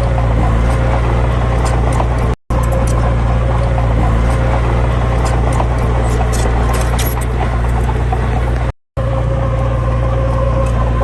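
Heavy diesel engine running steadily at a constant pitch. The sound drops out completely twice for a fraction of a second, about two and a half and nine seconds in.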